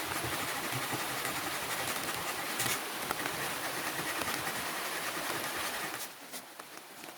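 Steady rain falling, an even hiss that cuts off sharply about six seconds in, leaving a few faint taps.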